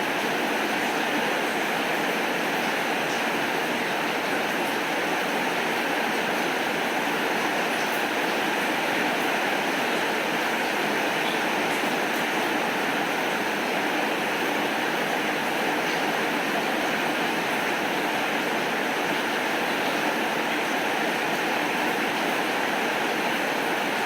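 Steady, even rainfall, a dense hiss of drops with faint scattered ticks of nearer drops.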